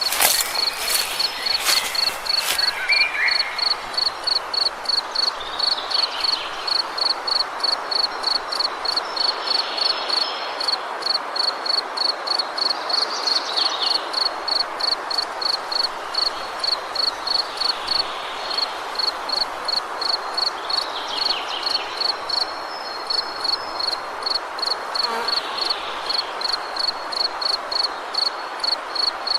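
A cricket chirping in a steady, even pulse, a few chirps a second, over a constant hiss of woodland ambience. Fainter falling calls come every few seconds, and a few sharp snaps sound in the first couple of seconds.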